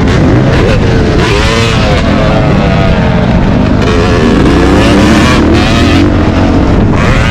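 Motocross dirt bike engine running loud under hard riding, its pitch rising and falling repeatedly with the throttle.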